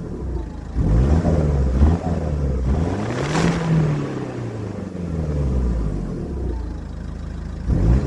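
Ford S-Max 2.0-litre Duratorq diesel engine revved several times through its old exhaust, which has been blowing from a leak. The pitch climbs and falls, highest about three and a half seconds in, with another blip near the end.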